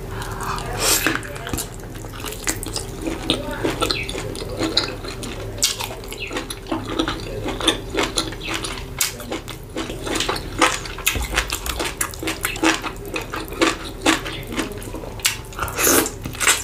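Close-miked wet chewing and lip smacking as a person eats big bites of fufu and egusi soup by hand, with a dense run of sharp wet clicks and squelches.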